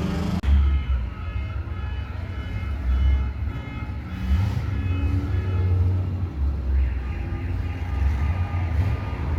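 Car engines running with a deep, low exhaust rumble that swells and eases every second or so.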